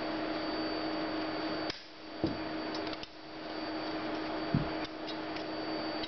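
A steady background hum, broken off abruptly a few times, with two soft low thumps about two and four and a half seconds in.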